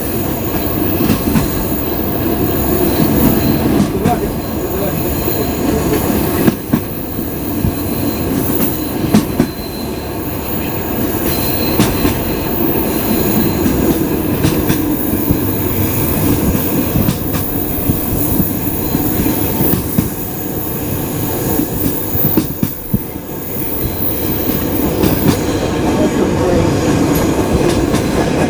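Passenger coaches of a suburban train rolling past on the rails, wheels clacking and knocking over rail joints, with squealing from the wheels.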